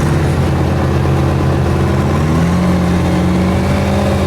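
Mega truck's engine running hard at high revs, its pitch slowly climbing and shifting.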